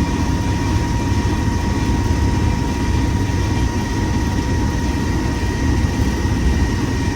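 Class 47 diesel locomotive's Sulzer V12 engine running under power, a steady heavy rumble heard inside the cab while the train runs along, with a faint constant high whine over it.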